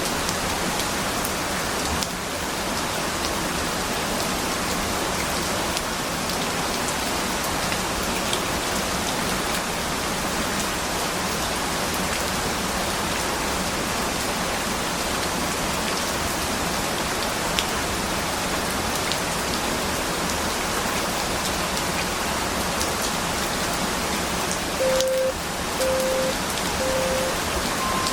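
Steady rain. Near the end come three short, lower timer beeps about a second apart, then a longer, higher beep: the countdown signal marking the end of the 25-minute Pomodoro focus period.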